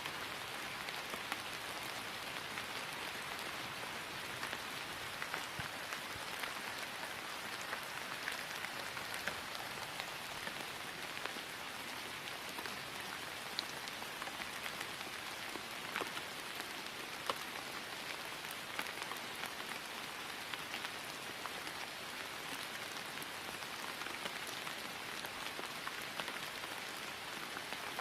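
Steady rain falling on grass: an even patter with many small, scattered drop ticks, no thunder.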